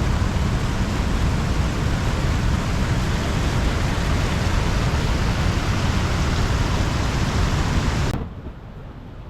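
Steady loud rush of waterfall rapids, which cuts off suddenly about eight seconds in to a much quieter background.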